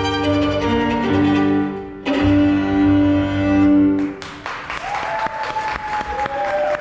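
Violin with piano playing sustained chords, closing on a long held final chord about four seconds in. Audience applause and a held cheer follow.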